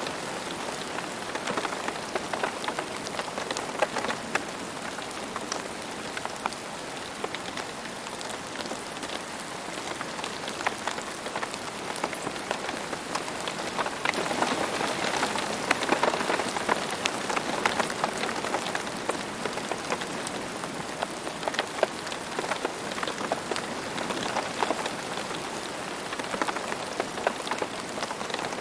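Steady rain falling, with many separate drops pattering on a hard surface, a little heavier about halfway through.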